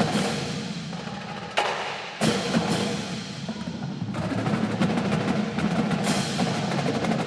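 Marching drum line of snares, tenors and bass drums playing a fast cadence, with sharp full-line accents about a second and a half in, again just after two seconds, and about six seconds in.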